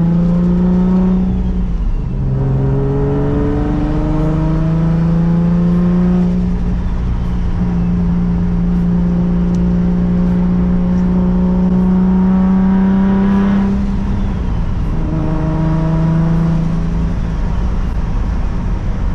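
BMW G82 M4's twin-turbo S58 inline-six under hard acceleration on a pull to check whether it holds boost. The revs climb and drop at upshifts about 2 s in, around 7 s in and about 14 s in, and hold high between the middle two.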